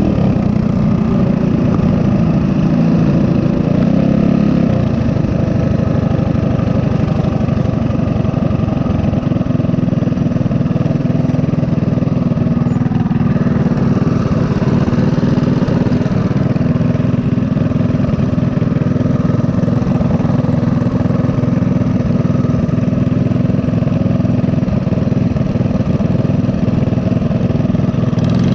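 Mini bike's small single-cylinder four-stroke engine running steadily under way. Its note drops a little about four seconds in, then holds.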